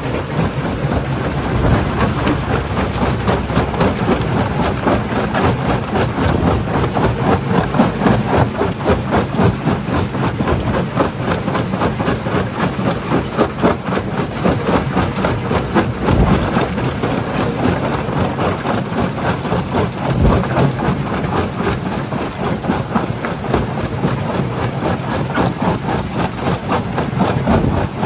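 Primary jaw crusher running under load, its engine droning steadily while rock clatters and cracks in rapid, continuous knocks, with two heavy thuds about sixteen and twenty seconds in.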